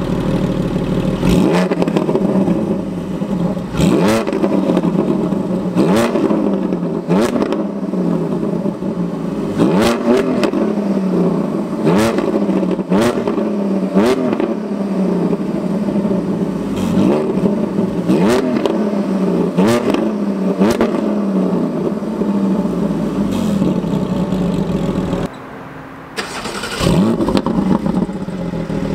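Porsche 718 GT4's 4.0-litre flat-six with an aftermarket Akrapovic exhaust, revved over and over in quick blips from idle, more than a dozen, each rising in pitch and falling back, for a decibel-meter reading. The sound drops away briefly near the end, then comes back with one more rev.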